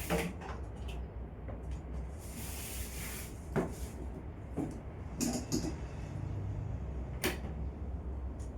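Several sharp knocks and clicks of things being handled and set down in a kitchen, with a brief rustle about two and a half seconds in, over a low steady hum.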